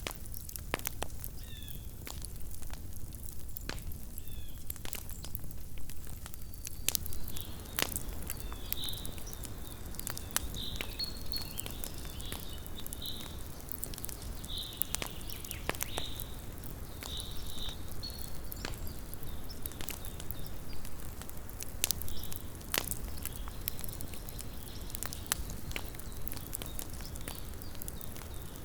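Small wood campfire crackling: irregular sharp snaps and pops over a low steady rumble. A faint high-pitched warbling sound comes and goes through the middle.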